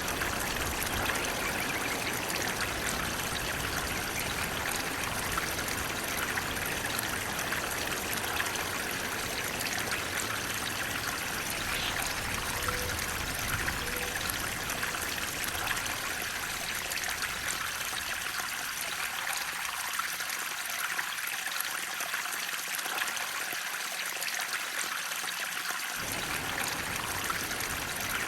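Flowing water rushing and trickling steadily, like a stream. Its low rumble thins out for several seconds near the end, then returns suddenly.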